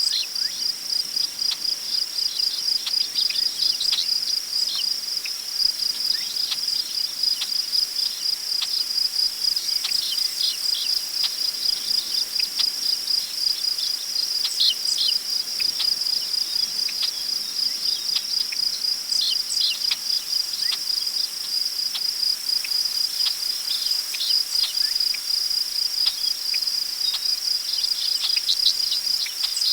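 Crickets chirping in a steady, rapidly pulsing chorus, with scattered short bird chirps and a soft rustle of wind in tall prairie grass underneath.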